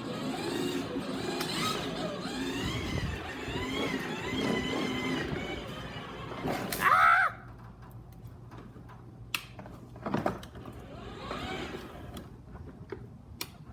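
Motorcycle engine running and changing pitch up and down during a ride. About seven seconds in there is a short, loud, high-pitched cry or squeal, then the engine drops away to a quieter stretch with a few clicks.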